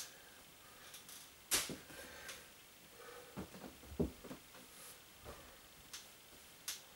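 Clothes being handled: a few scattered rustles and light knocks, the sharpest about a second and a half in and again at four seconds.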